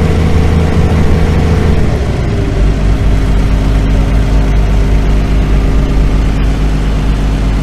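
Gasoline-powered water pumps running steadily as they fill the AquaDam's tubes. About two seconds in, the engine pitch drops a little and then holds.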